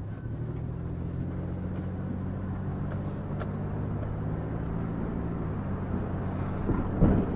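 A motor vehicle's engine running at a steady speed, a low drone that holds the same pitch, with a short knock about seven seconds in.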